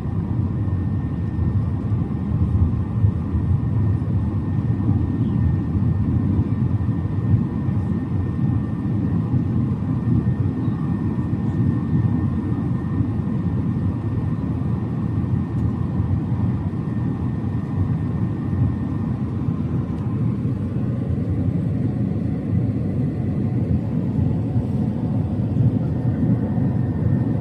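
Airbus A380 airliner on approach, a steady low rumble with a faint thin whine above it that fades out about two-thirds of the way through.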